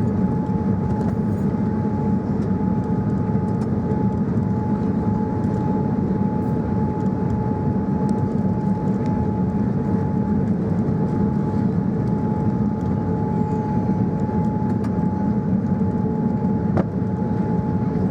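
Steady cabin noise inside a Boeing 787-9 Dreamliner, the engines and airflow giving an even low rumble with a constant high tone running through it.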